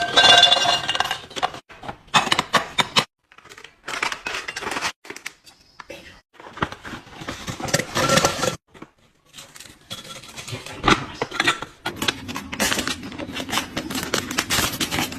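Items, containers and packaging being handled and set into place: intermittent clicks, clinks and rustling with short pauses between.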